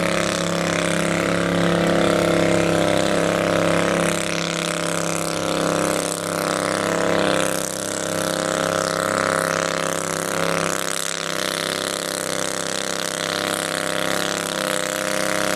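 Twin-cylinder garden tractor engine running steadily at a fairly constant speed, its pitch wavering slightly.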